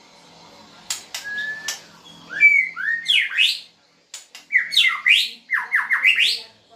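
White-rumped shama singing: a short level whistle and a few sharp clicks, then a run of quick whistled notes sweeping up and down, broken by a brief pause about four seconds in.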